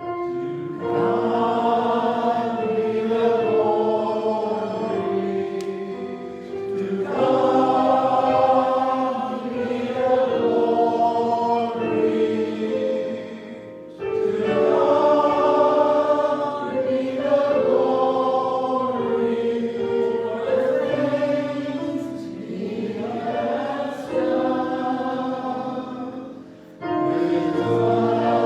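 Choir singing a gospel hymn in sustained chords, phrase by phrase, with short breaks between the phrases.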